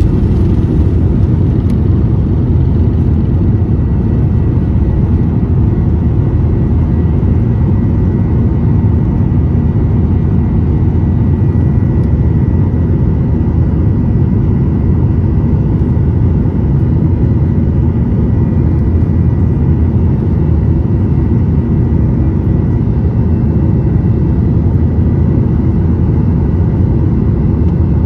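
Jet airliner during takeoff: a loud, steady engine rumble with a faint steady whine above it.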